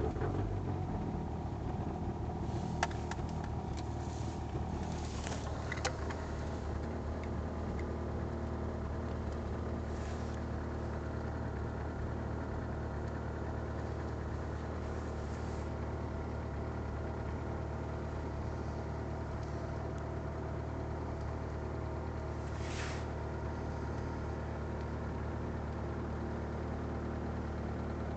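Volkswagen Passat's 1.9 TDI four-cylinder turbodiesel idling steadily just after a cold start at −20 °C. A couple of sharp clicks come in the first six seconds.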